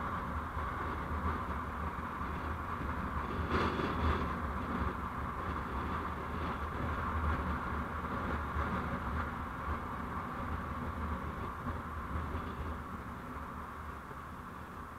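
Steady road and engine noise of a vehicle on the move, with a brief knock about three and a half seconds in, easing off slightly toward the end.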